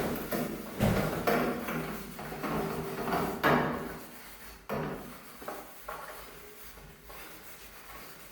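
A run of knocks and clatters from household objects being handled and set down, several sharp strikes in the first half, fading to lighter handling noise after about five seconds.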